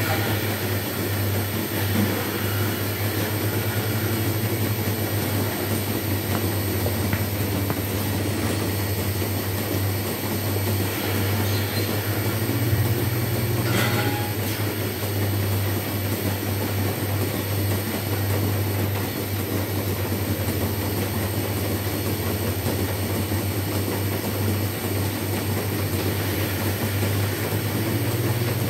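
Dairy milking-shed machinery running steadily: a constant low hum with a noisy mechanical rattle over it, and a single metal clank about halfway through.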